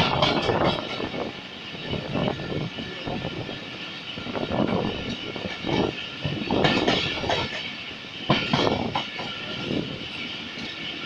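Pakistan Express passenger coach running along the track, heard from an open window: wheel-on-rail noise that swells and fades in uneven surges every couple of seconds.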